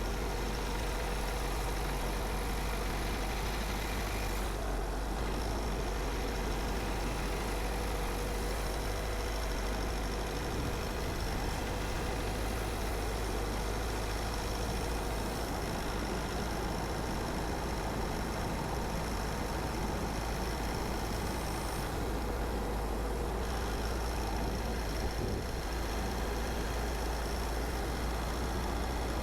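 A car being driven at a steady pace: an even rumble of engine and road noise with no clear changes.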